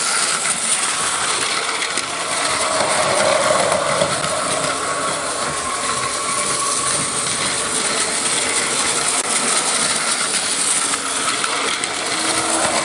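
A train running, giving a steady, loud rattling noise with no pitched tones.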